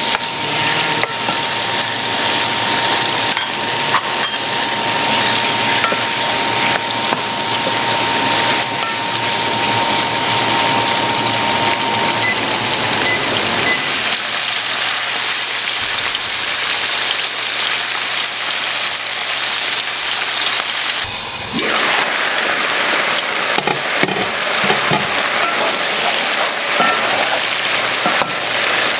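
Chicken cubes sizzling steadily as they fry in hot oil with onions and tomatoes in a pan.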